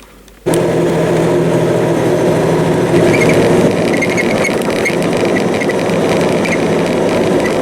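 Peterbilt 379 truck's diesel engine running steadily, cutting in suddenly about half a second in, with faint intermittent high squeaks or rattles over it.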